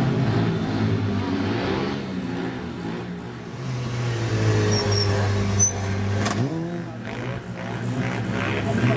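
Stunt motorcycle engine running steadily, with a quick rev rising in pitch about six seconds in.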